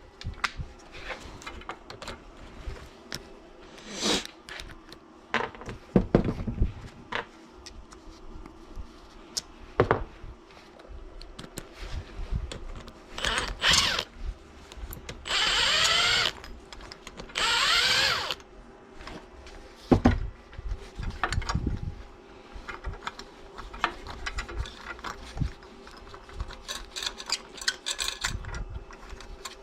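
A small power tool runs in two short bursts, each about a second long, about halfway through. Scattered clicks and knocks of tools and metal parts being handled come before and after.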